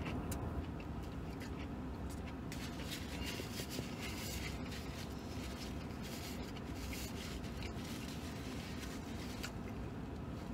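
A man chewing a mouthful of meat sandwich, with faint napkin and wrapper rustles, over a steady low hum inside a vehicle cab.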